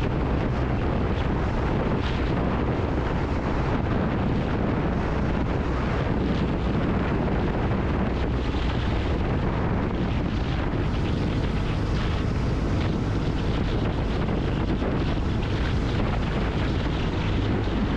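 Wind rushing over the microphone on a moving motorcycle, over the steady drone of a Kawasaki W800 Cafe's air-cooled parallel-twin engine running at an even speed.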